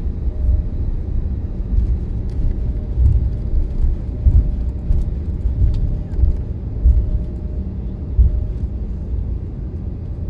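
Jet airliner cabin noise: a loud, uneven low rumble with a faint steady tone above it.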